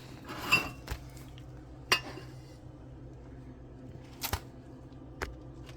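Sandwich-making handling sounds: a short rustle about half a second in, then a few sharp clicks and knocks of dishes and utensils as sliced tomatoes are put on the sandwich.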